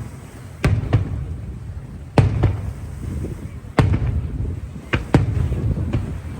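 Aerial fireworks shells bursting: a run of about seven sharp booms at uneven intervals, some in quick pairs, with a low rumble between them.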